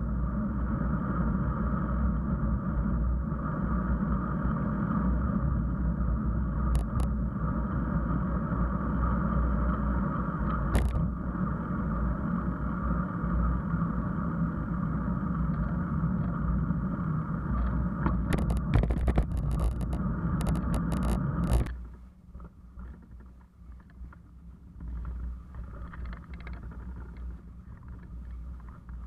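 Steady rumble and road noise of a bicycle ride picked up by the camera, with a few sharp rattles. About 22 seconds in it cuts off suddenly to a much quieter background.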